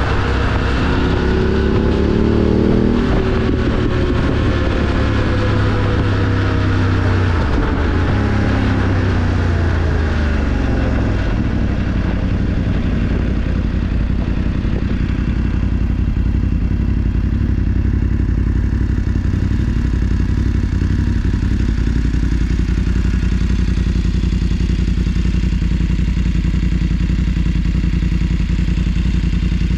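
BMW F 850 GS Adventure's parallel-twin engine running under way, rising in pitch for the first three seconds or so, then falling away over the next several seconds and settling to a steady, lower note.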